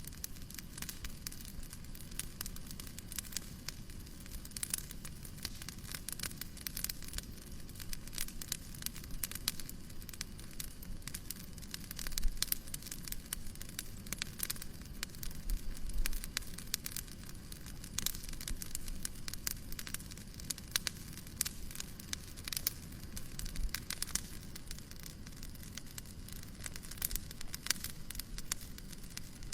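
Wood fire crackling in a fireplace: a steady run of small sharp snaps and pops over a low hiss, with a few louder pops about twelve and sixteen seconds in.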